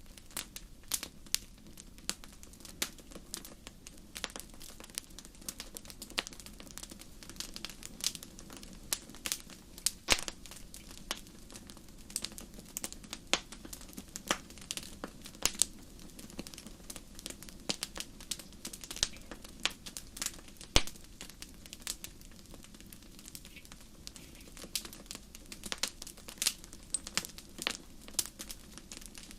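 Wood fire burning in a fireplace: frequent irregular crackles and sharp pops over a low, steady rumble of the flames.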